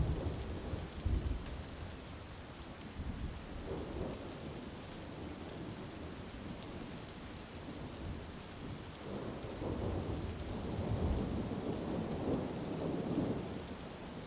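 Steady heavy rain with rolling thunder: one low rumble fading out in the first couple of seconds, and another building and rolling from about nine seconds in until near the end.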